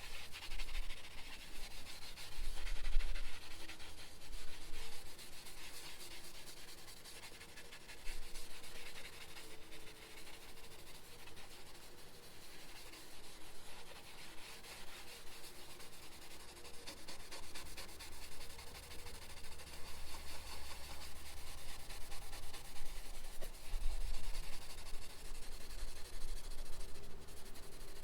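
Damp melamine foam sponge (magic eraser) scrubbing a car's plastic interior panel: continuous rubbing.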